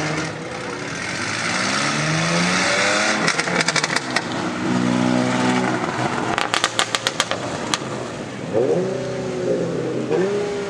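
Car engines revving hard, pitch climbing and dropping, with two runs of rapid sharp pops or crackles, about three seconds in and again near the middle.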